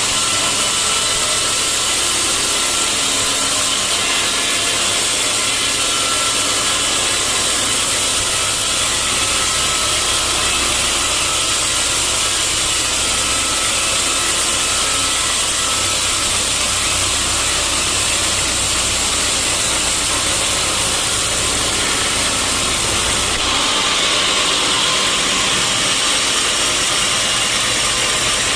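Sawmill saw running and cutting through a hardwood log, a steady loud whine-and-hiss of blade in wood over a motor rumble. About 23 seconds in the low rumble drops away and the sawing sound turns brighter.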